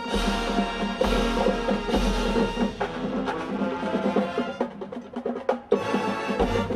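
Marching band playing: brass chords punctuated by heavy bass-drum hits about once a second, then a stretch of quick, sharp drumline strokes before another big hit near the end.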